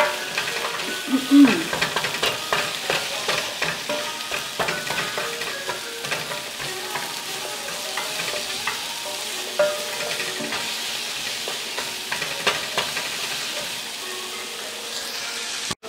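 Sliced onions and whole garlic cloves sautéing in a nonstick pan: a steady sizzle, with a silicone spoon stirring and scraping against the pan bottom in frequent small clicks. The sound cuts off abruptly near the end.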